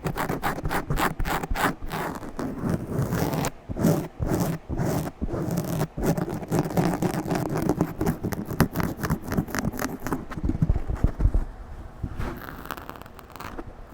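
Aggressive scratching directly on a microphone: rapid, loud, rough rubbing strokes, several a second, that ease into a softer, smoother rubbing near the end.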